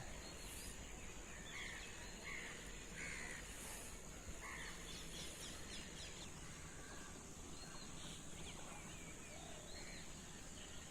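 Faint outdoor ambience: several short bird calls in the first few seconds, then fewer, over a steady high-pitched hiss.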